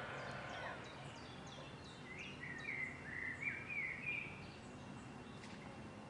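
Wild birds singing over a steady background hiss: a run of quick, high, falling chirps, then a louder warbling phrase about two seconds in.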